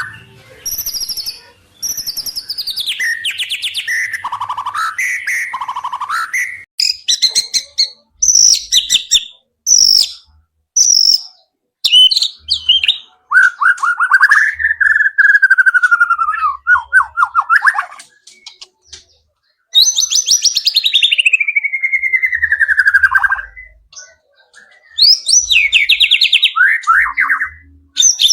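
White-rumped shama (murai batu) singing a varied song stuffed with imitated wild-bird phrases: loud whistles, fast rattling trills and long notes sliding downward, in bursts with short pauses between.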